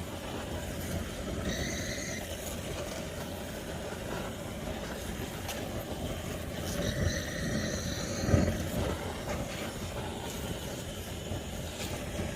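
Campfire burning: a steady low rumble of the flames with scattered crackles and pops, one louder pop about eight seconds in. Two short high-pitched whistling tones come through, one about a second and a half in and a longer one about seven seconds in.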